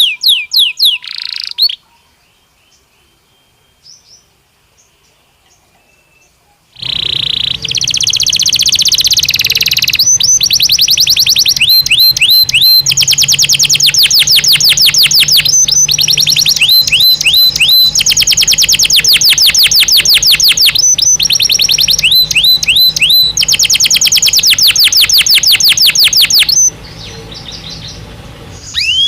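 Domestic canary (Belgian canary) singing in fast rolling trills of rapidly repeated notes. A short phrase opens, then several seconds of near silence with only faint chirps, then loud, continuous song from about a quarter of the way in that turns quieter near the end.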